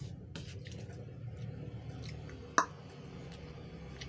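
Soft mouth sounds of a person eating: quiet chewing and small wet clicks, with one sharp click about two and a half seconds in.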